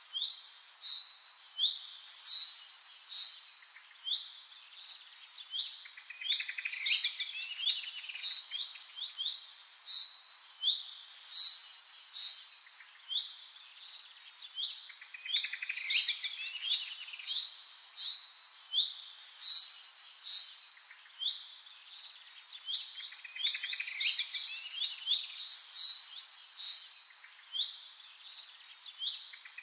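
Small songbirds chirping and singing continuously: bouts of short, high, downward-sweeping chirps mixed with rapid trills.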